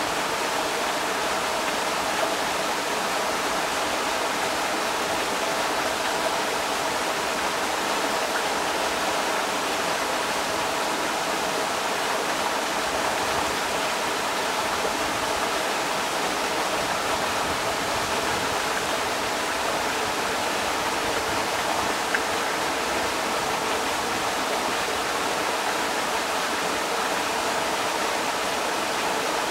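Creek water rushing steadily, a constant splashing hiss with little low rumble.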